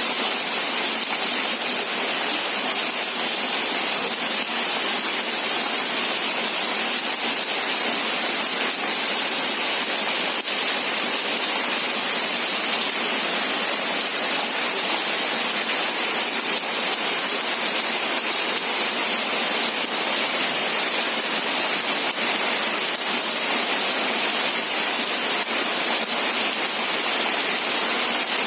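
Steady rain falling: an even, unbroken hiss, bright and high, with almost no low rumble.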